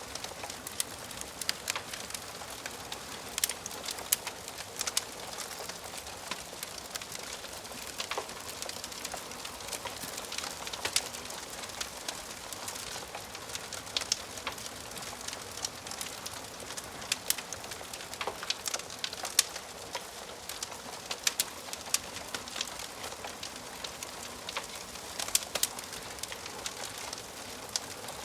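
Wood fire crackling in a fireplace: a steady soft hiss with frequent sharp pops and snaps at irregular intervals.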